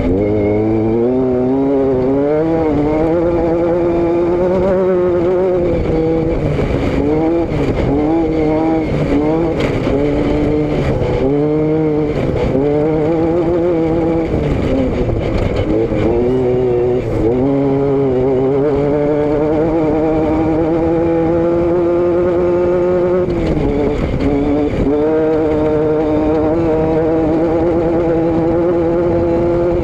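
Vehicle engine and exhaust under way, its pitch climbing and falling again and again as it revs and eases off. The swings are short at first, then the engine makes longer, steadier climbs, with a drop about 23 seconds in before it climbs again.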